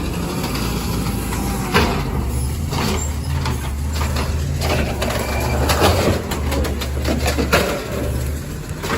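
Garbage truck engine running steadily, with several sharp knocks and clatters over it.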